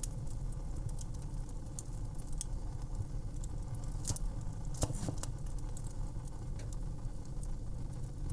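Fireplace fire crackling: a steady low rumble of burning with frequent sharp pops and snaps, a few louder crackles about four to five seconds in.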